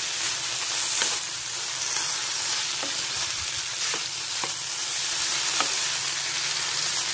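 Potato strips sizzling steadily in hot coconut oil in a non-stick frying pan while a wooden spatula stirs and tosses them, with a few light knocks and scrapes of the spatula against the pan.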